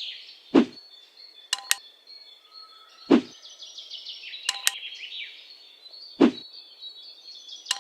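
Birds chirping steadily in the background, broken by three dull thumps about three seconds apart, each followed about a second later by a pair of sharp clicks.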